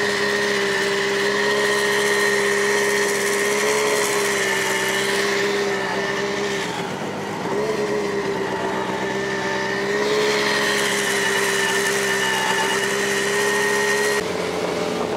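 Rally car engines running at close range, a steady engine note whose pitch rises and falls slightly. The sound changes abruptly about halfway through and again near the end.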